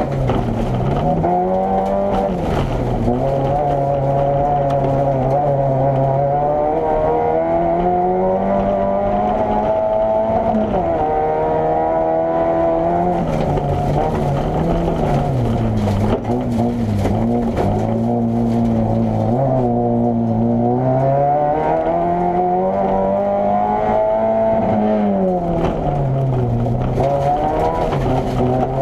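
Opel Corsa A GSi's engine driven hard in practice, its note rising and falling again and again as it accelerates, lifts off and changes gear.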